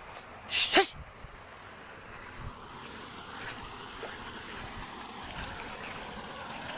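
A dog barks twice in quick succession about a second in, then a steady hiss of background noise.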